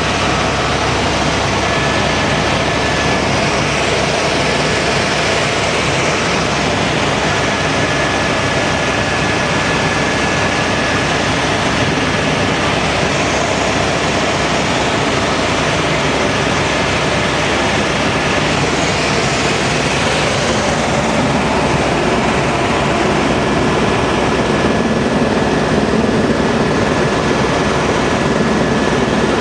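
Helicopter in flight: a loud, steady rush of rotor and engine noise with a thin, steady high whine running through it.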